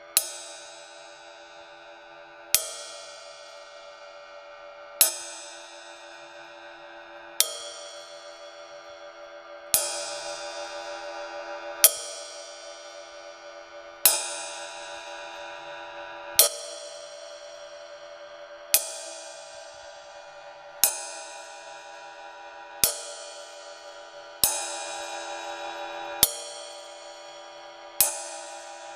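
Ride cymbal, close-miked, struck with a stick about once every two seconds. Each single hit rings on with a long shimmering wash of overtones that has not died away before the next hit.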